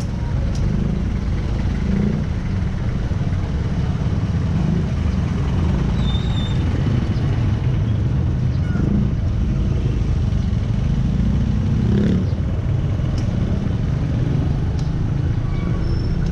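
Steady low rumble of wind and vehicle noise heard from a helmet-mounted action camera while riding, with a few faint clicks.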